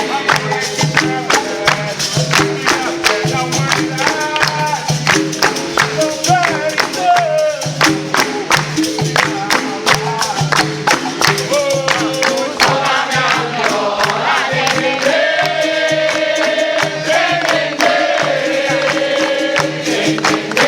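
Capoeira music: voices singing together over steady, quick percussion strikes from hand instruments such as the pandeiro.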